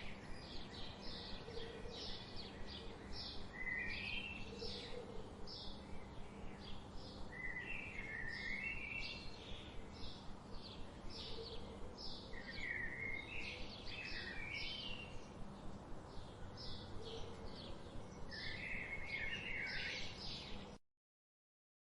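Wild birds singing: short, high chirps repeated two or three times a second, with a lower warbling phrase every few seconds. The sound cuts off abruptly near the end.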